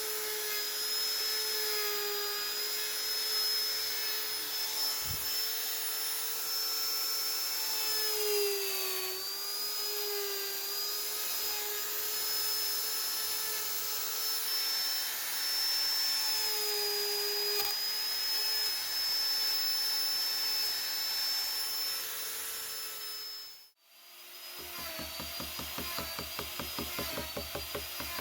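High-speed electric rotary carving tool cutting wood, running with a steady high whine whose pitch dips briefly a few times as the bit bites under load. Near the end the sound cuts off abruptly, then a rapidly pulsing tool sound follows.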